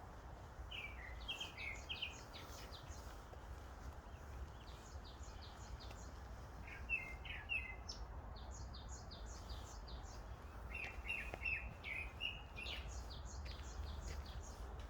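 Several small birds chirping and singing in a May mountain forest, short quick notes in three bursts with pauses between, over a faint steady background hum.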